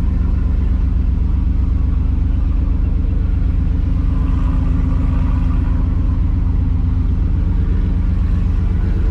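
Ford Lightning pickup truck's V8 engine and exhaust droning steadily while driving at low speed, with a heavy, even low rumble.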